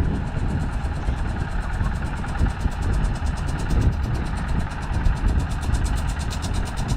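Tractor engine running steadily with a rapid, even pulse.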